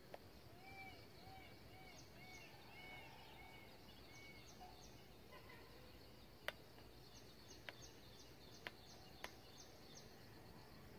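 Faint wild birdsong from several birds: a run of low arching notes, higher repeated whistles, and quick high chirps. A few sharp clicks sound in the second half, the loudest of them a little past the middle.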